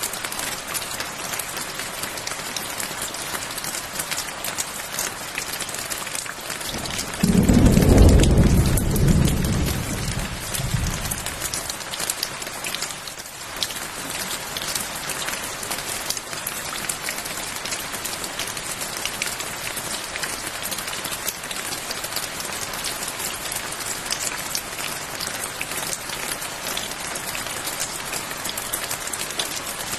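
Steady rain falling on a surface, with a roll of thunder that breaks in about a quarter of the way through, loudest at first and dying away over about four seconds.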